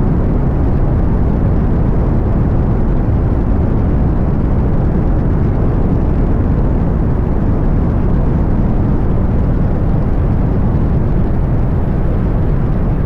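Cessna 185 Skywagon floatplane's flat-six piston engine running steadily, a loud, even low drone with no change in pitch or level.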